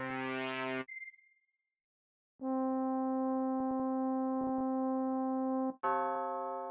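Melodic one-shot samples from a trap sound kit played one at a time: a held synth note that cuts off just under a second in, a short bell-like ding, a pause, a steady synth note held about three seconds, then another note that fades out.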